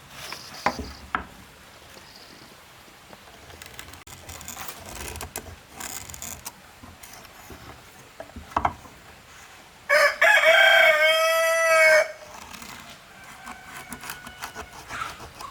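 A rooster crowing once, a single pitched call of about two seconds starting roughly ten seconds in. A few short sharp knocks sound earlier.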